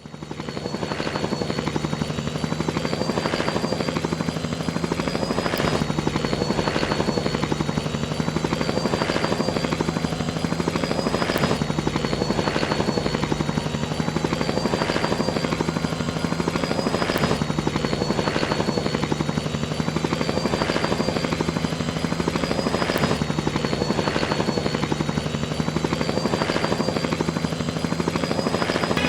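Helicopter sound effect: a steady, evenly repeating rotor chop over a constant engine hum and high whine, faded in at the start.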